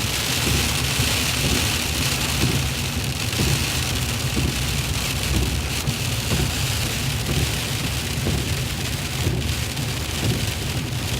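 Steady noise inside a moving car: a low rumble from the car and road with a continuous hiss of tyres on a wet, icy road.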